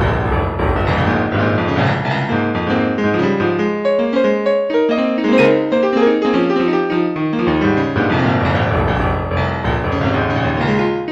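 Solo piano music playing a flowing run of notes, the low bass notes dropping out for a few seconds in the middle.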